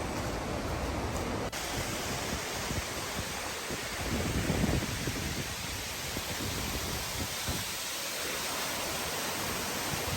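Steady rushing roar of a tall waterfall, with a low rumble swelling briefly about four and a half seconds in.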